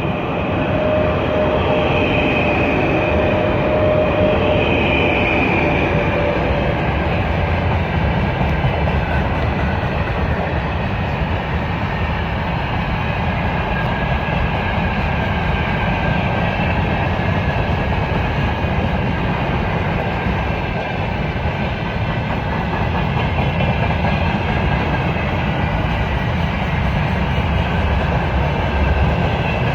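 A Russian freight train rolling past on the rails: a loud, continuous rumble of wagon wheels and rolling stock. A few faint steady tones fade out in the first several seconds.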